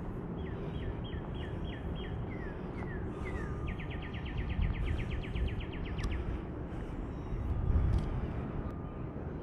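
A songbird sings a run of about eight down-slurred whistled notes, then a fast trill of roughly ten notes a second lasting about two and a half seconds. A steady low rumbling noise runs underneath and swells briefly near the end.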